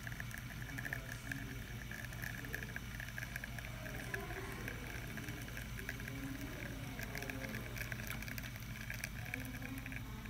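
Espresso streaming from a La Pavoni lever machine's portafilter into a cup: a steady fine crackling patter of liquid over a low steady hum.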